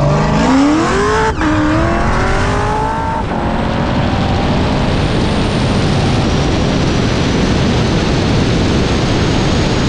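Supercharged, cammed C7 Corvette Z06 V8 at full throttle, rising in pitch. There is a quick upshift about a second and a half in, then it climbs again. From about three seconds on, wind and road roar at high speed cover the engine.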